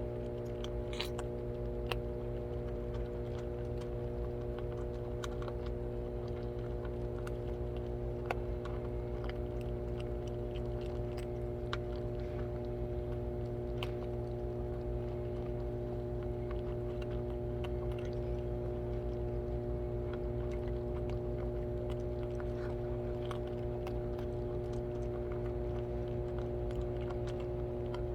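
Several cats eating, with scattered small clicks and crunches of chewing over a steady low hum.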